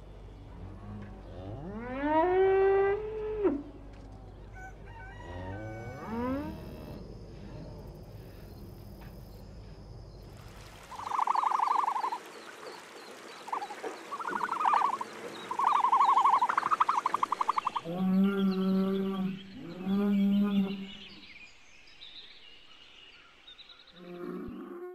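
Cattle mooing: a long moo that rises in pitch and then holds, about two seconds in, and a shorter one around six seconds. A run of short, higher, pulsing calls of another kind follows in the middle, then two more low, steady moos around eighteen and twenty seconds.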